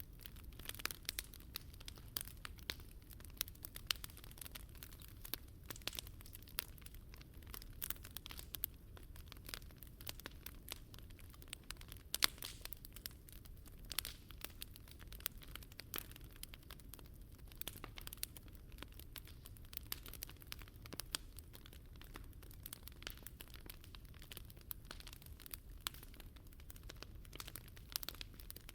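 Wood fire burning in a Picogrill 398 fire stand, crackling with irregular sharp pops and snaps several times a second over a steady low rumble.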